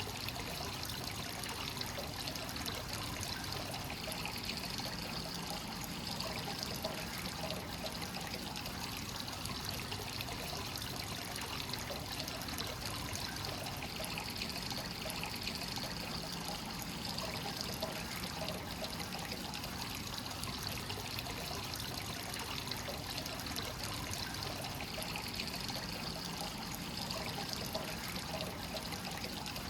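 Hot-spring source water pouring steadily into a bath, a continuous trickling and splashing with no pause or change.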